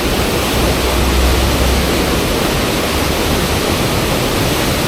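Loud, steady rush of fast-flowing river water, with a low rumble swelling briefly about half a second to two seconds in.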